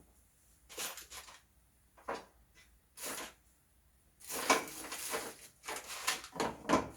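Handling noise from motorcycle parts and fittings being worked on: several short bursts of rustling and clatter, busiest in the second half.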